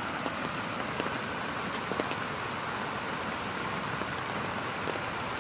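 Steady rain falling, an even hiss with a few scattered drops ticking now and then.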